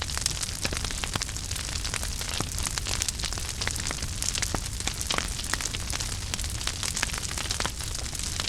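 Wood fire burning in a fireplace, a steady hiss and low rumble with frequent irregular crackles and pops.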